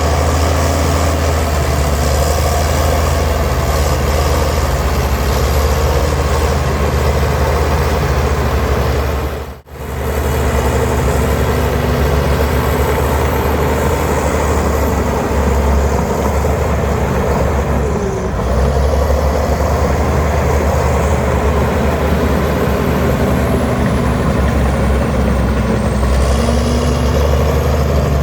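Heavy diesel earthmoving machinery running steadily under load, with the sound cutting out briefly a little under ten seconds in.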